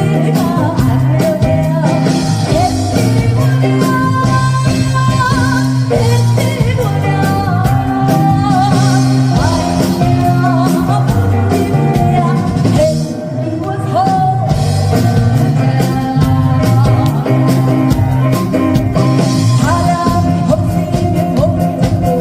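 Fusion gugak (Korean traditional music crossed with pop) performed live: a sung melody over a band backing with a steady beat, easing off briefly about halfway through.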